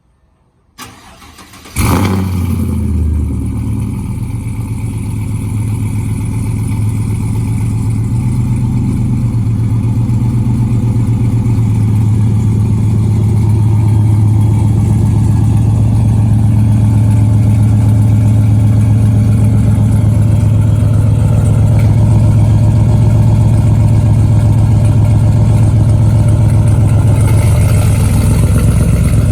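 Cold start of a 2015 GMC Sierra's ProCharger P1SC-supercharged 5.3 L L83 V8: about a second of starter cranking, then it catches with a brief loud flare about two seconds in. It settles into a steady idle through Pacesetter headers, a true dual 3-inch X-pipe and Magnaflow Bullet mufflers.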